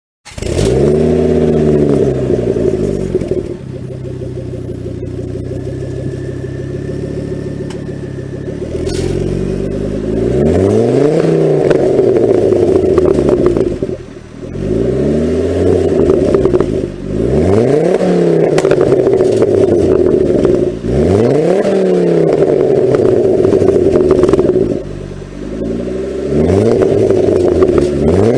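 Inline-cylinder car engine under hard acceleration, climbing in pitch and dropping at each of four upshifts, after a few seconds of running steadily at lower revs.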